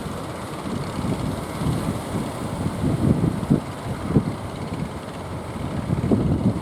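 Strong wind buffeting the microphone in irregular low gusts over a steady rushing noise.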